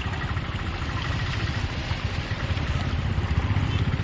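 An engine running steadily, with a low, rapidly pulsing throb.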